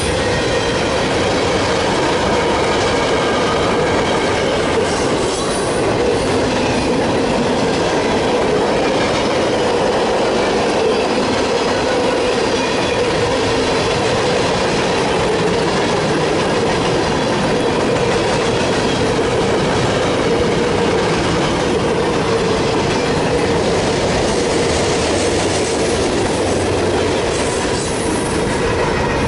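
CSX freight train's cars rolling past: a steady rumble and clatter of wheels on rail, with a sustained squeal from the wheels.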